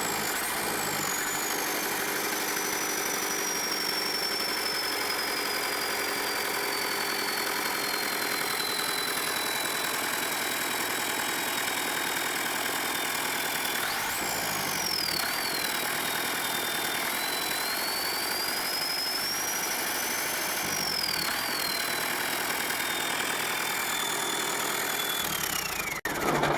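Lister Petter diesel engine running steadily as a generator, with a high whine that slides down in pitch, jumps back up about halfway through and wanders. One cylinder is down and the engine is smoking, which the owner puts down to a badly adjusted injector. The sound cuts off near the end.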